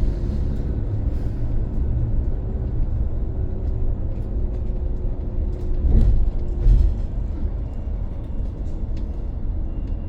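Cabin noise inside a moving BYD BD11 battery-electric double-decker bus: a steady low rumble of road and running gear with a faint steady whine. The rumble grows louder for a moment around six to seven seconds in, as over a bump.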